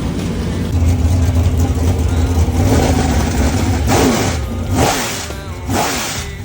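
Big-block Chevy V8 race engine running with a steady low drone, then revved in a series of sharp throttle blips, roughly one a second, starting about four seconds in.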